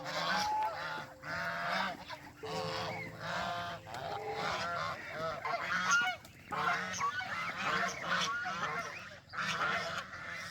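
A flock of farm poultry calling over one another, with many harsh calls in quick succession.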